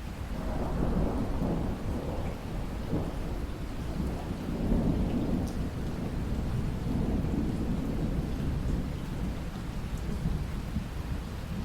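A long roll of distant thunder over steady rain with light drips. The rumble swells in right at the start and rolls on in several waves, strongest around a second in and again near the middle.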